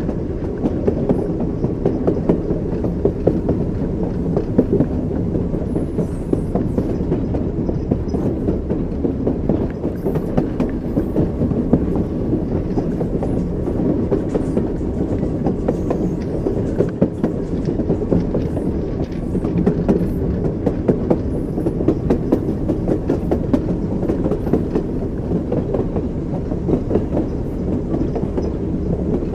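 Train wheels running over the rails: a steady low rumble with frequent sharp knocks and clatter from the rail joints.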